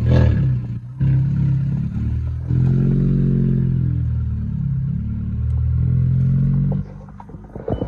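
Car engine running with a loud exhaust, revved up and back down once about three seconds in, then settling; it gets quieter near the end.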